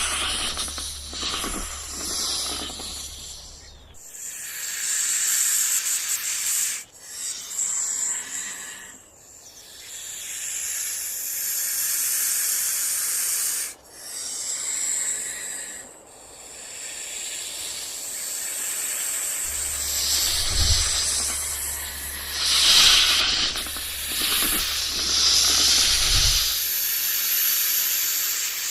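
Rattlesnake buzzing its tail rattle: a dry, high buzz in long spells that break off briefly several times.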